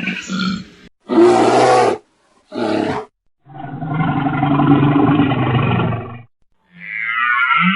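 A big cat roaring in three separate roars: a short loud one, a brief second one, and a long one lasting nearly three seconds. Near the end a different, higher-pitched wavering animal call begins.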